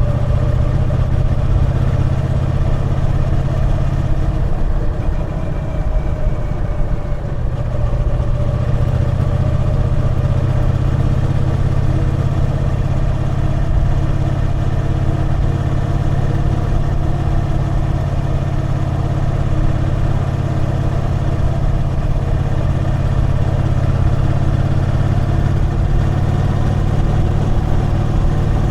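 Triumph Bonneville T120's parallel-twin engine running steadily under way. Its pitch shifts and the sound dips briefly about seven seconds in, as if the throttle eases or a gear changes, before it settles into a steady run again.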